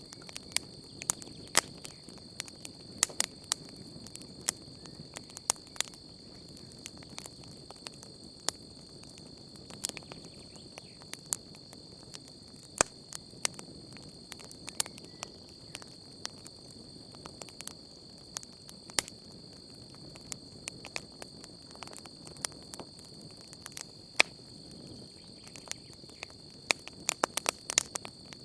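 Wood campfire crackling, with irregular sharp pops scattered throughout and a quick flurry of them near the end, over a steady high-pitched chirring of night insects.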